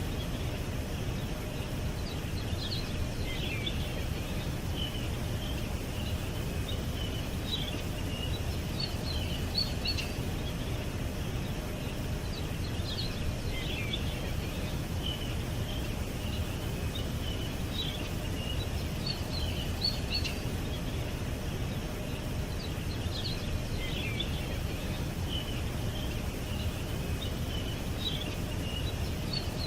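Small songbirds chirping and twittering in quick high notes over a steady low background rumble; the same burst of chirps comes round about every ten seconds.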